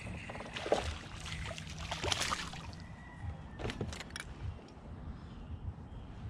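Water sloshing and splashing against a kayak's hull, with a few irregular knocks and clunks.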